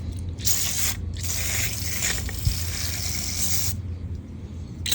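Aerosol foaming coil cleaner hissing out of its can onto a motorcycle radiator in two bursts, a short one and then a longer one, stopping about a second before the end.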